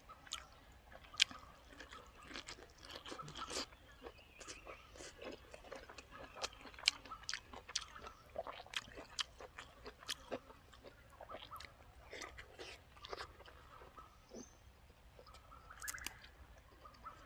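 A person chewing food close to the microphone, with irregular small clicks and crunches throughout.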